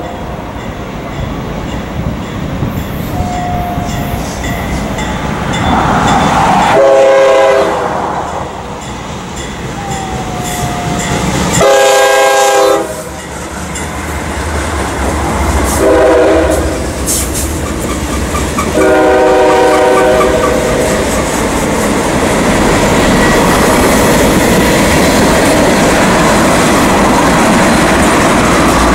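A CSX freight train's diesel locomotive horn, a chord of several notes, sounds four blasts (long, long, short, long, the grade-crossing signal) as the locomotives come up and pass with a heavy engine rumble. After that comes the steady rolling and clickety-clack of freight cars going by.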